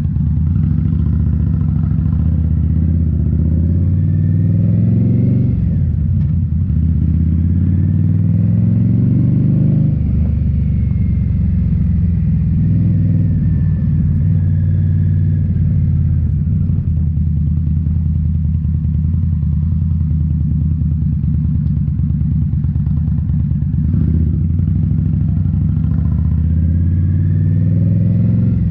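2018 Indian Scout Bobber's V-twin running through Rinehart slip-on mufflers. It pulls up in pitch twice, with a sudden drop at each upshift, then holds a steady cruise before climbing in pitch again near the end.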